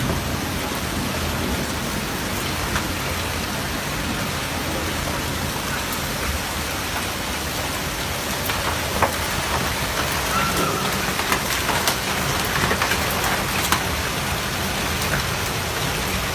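Heavy rain falling steadily and splashing on surfaces, with scattered sharper drop taps.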